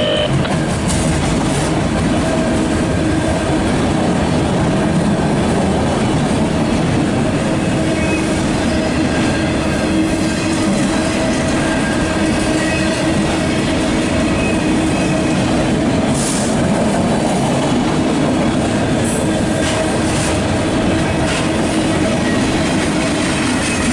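Loaded autorack freight cars rolling past at close range: a steady, loud rumble of steel wheels on rail with faint steady squealing tones. A few sharp clacks come in the second half.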